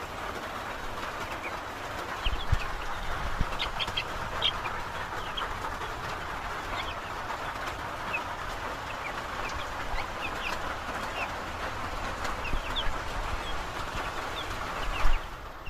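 Steady rain falling, with chickens chirping and peeping in short high calls throughout. A couple of low thumps come a few seconds in.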